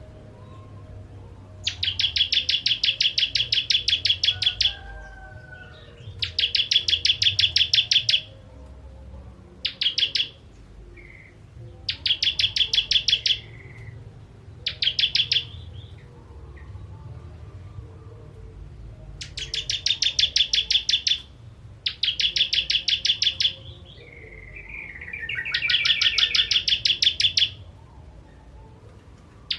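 Ciblek kristal prinia singing: repeated bursts of very rapid, high, evenly pulsed chattering notes, each lasting up to a couple of seconds, with short pauses between, and a brief falling warble just before the last burst.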